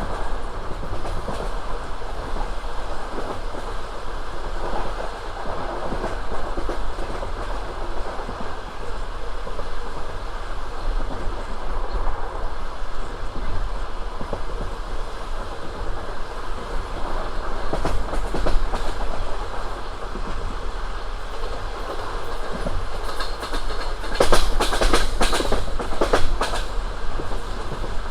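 Passenger train running on the line, with the steady rumble of the carriage and the clickety-clack of its wheels over the rails. A run of louder, sharper clacks comes near the end.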